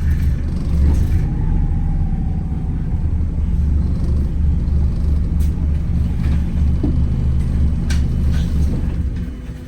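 Inside a Wright Gemini 2 hybrid double-decker bus on the move: a steady low engine and drivetrain rumble with occasional short rattles. The rumble fades about nine seconds in, leaving a quieter hum.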